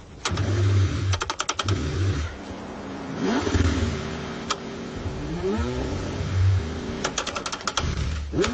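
A car engine cranking over in the cold, pulsing unevenly, with short pitch-gliding revs. Two quick runs of rapid clicking come about a second in and again near the end.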